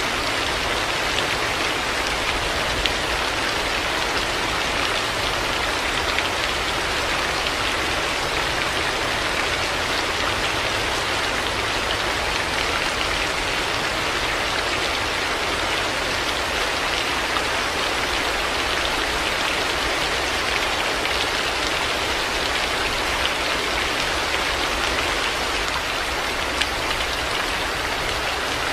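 Heavy rain falling steadily: a dense, even hiss of rain on surfaces, with scattered sharper drop taps.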